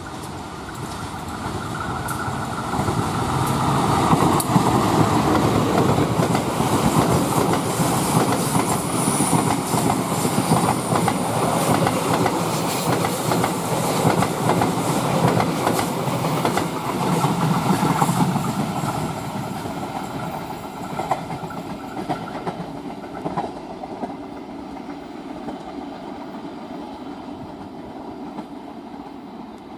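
Train passing close by: the rumble of its wheels and the clickety-clack over rail joints build up over the first few seconds, stay loud for about fifteen seconds, then fade, with a few last clacks as it goes.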